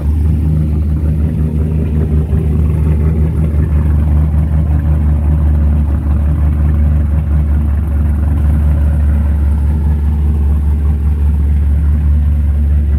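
Twin-turbocharged 6.2-litre LT1 V8 of a 6th-gen Camaro SS (Huron Speed turbo kit) idling steadily and loudly.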